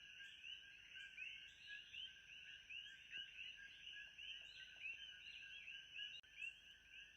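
Faint, steady chorus of many rapid chirping calls, about three or four a second, with a thin steady high tone and a soft tick roughly once a second above it.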